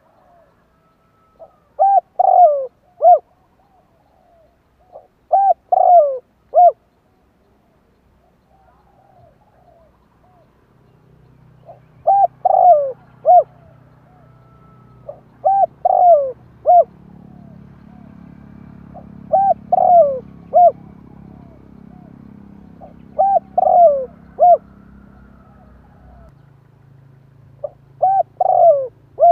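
Spotted dove cooing: seven phrases of three or four quick coos each, repeated about every three to four seconds. A faint low hum sits underneath through the middle of the stretch.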